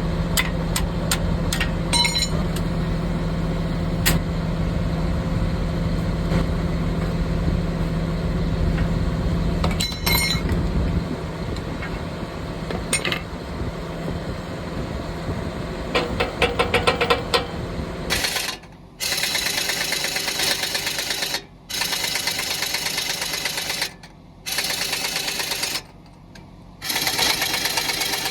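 Workshop machinery: a steady low mechanical hum with scattered metallic clicks. About two-thirds of the way in it gives way to a rough, higher-pitched running sound in several bursts, each cut off abruptly by a short pause.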